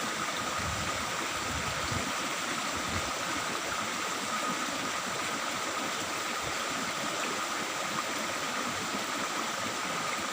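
Water in a small stream trickling and babbling steadily.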